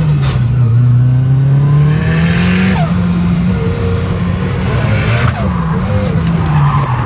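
Turbocharged Nissan CA18 four-cylinder engine held at high revs while drifting, its pitch rising and dipping, with the revs dropping briefly about five and a half seconds in, under tyres squealing and skidding.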